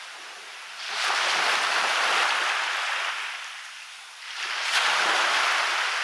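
Waves washing onto a beach. Two rushing surges come in, one about a second in and another past four seconds, each swelling and then fading away over two to three seconds.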